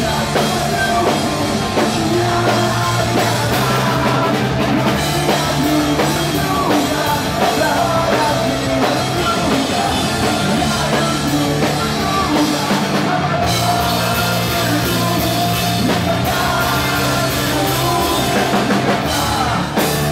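Rock band playing live, with drum kit, electric guitars and bass, and some singing.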